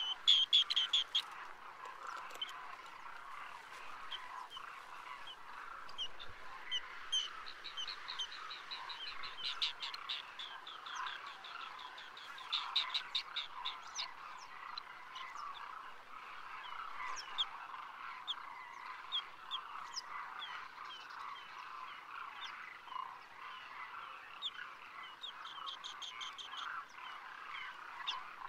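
Green bee-eaters calling in quick trilled series of high notes, several times, over a steady, busy background chorus of calls.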